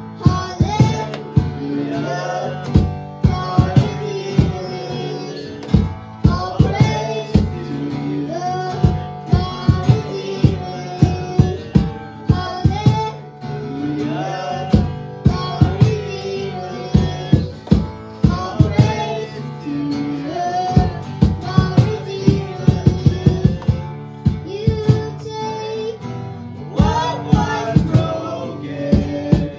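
Live worship band music: guitar and other instruments playing in a steady rhythm, with voices singing over them.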